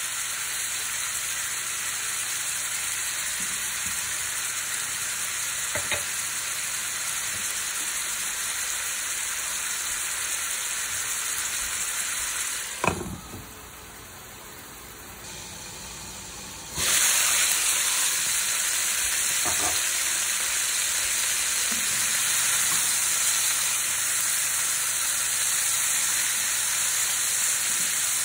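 Chicken leg quarters sizzling steadily in oil and pickle juice in a nonstick frying pan. About halfway through there is a sharp clack, and the sizzle goes muffled for a few seconds under a glass lid, then is loud again.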